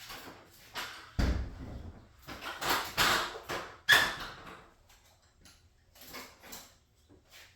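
Irregular knocks, rattles and scrapes of metal garage door hardware being handled. About four seconds in there is one sharp metallic clank that rings briefly.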